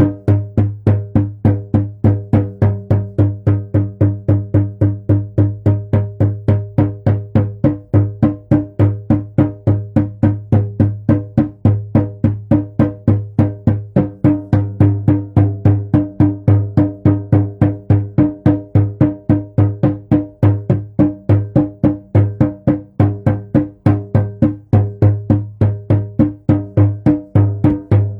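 A drum beaten by hand in a steady, even rhythm of about three strokes a second, each stroke a deep boom that rings on.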